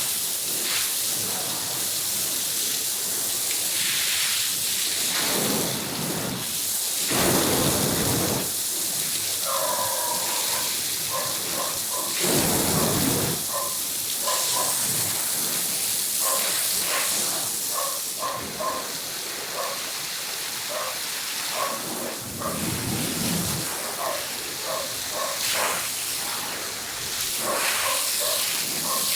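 Steady hiss of water spraying onto a carpet during washing, with heavier rushes about a quarter, halfway and three-quarters through, and from about a third of the way in many short, pitched squeaks.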